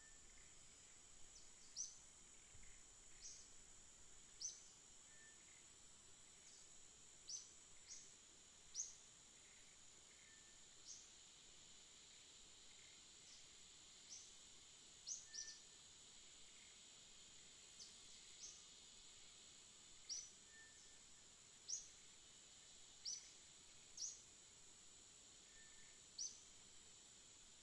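Faint bird chirping: single short, rising high chirps every second or two at uneven intervals, over a steady high-pitched insect drone.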